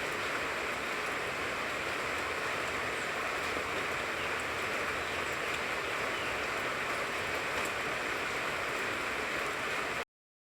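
Steady rain falling on a tangerine tree, an even hiss with faint scattered drop ticks. It cuts off suddenly near the end.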